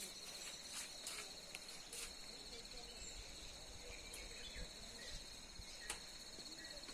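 Steady high-pitched insect trilling, typical of crickets, with a few sharp clicks over it, the strongest near the end.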